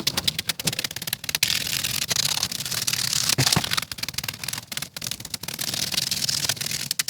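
Stiff clear plastic patterning sheet crackling and clicking rapidly as it is handled.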